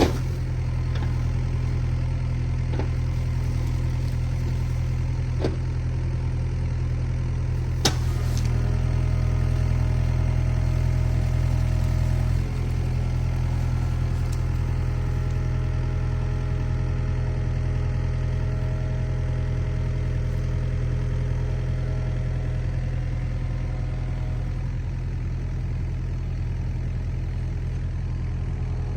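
Excavator's diesel engine running steadily while working, with a few sharp knocks, the loudest about eight seconds in, and a slight drop in engine level about twelve seconds in.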